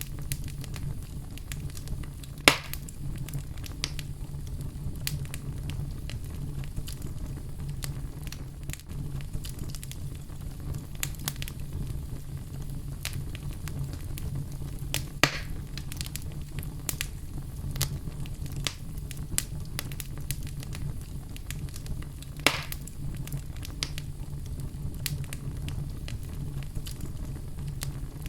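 A fire in a fireplace crackling steadily: many small pops and clicks over a low, even rumble of the flames. Three louder snaps stand out, one a couple of seconds in, one about halfway, and one about three-quarters of the way through.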